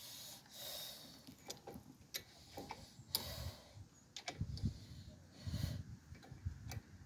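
Scattered light clicks and taps of metal brake parts being handled during a front brake pad job, with a few dull low knocks in the second half.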